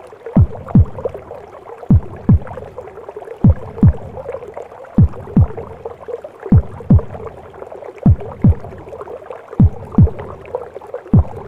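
Womb-sound recording of a mother's heartbeat: slow paired lub-dub thumps, each pair about a second and a half apart (roughly forty beats a minute), over a steady watery whooshing.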